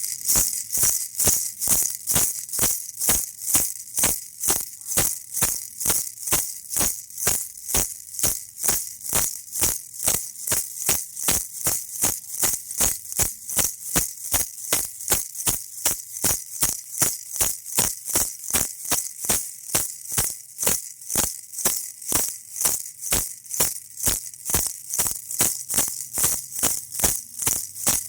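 Baby rattle shaken over and over in a steady, even rhythm, about two and a half shakes a second, each shake a bright, hissy rattle of beads.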